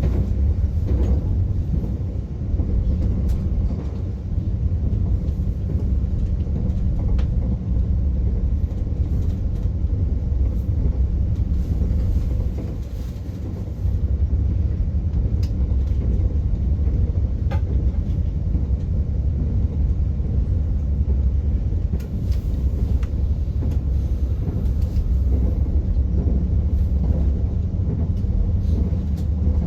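A passenger train running, heard from inside the carriage: a steady low rumble of wheels on track, with occasional faint clicks.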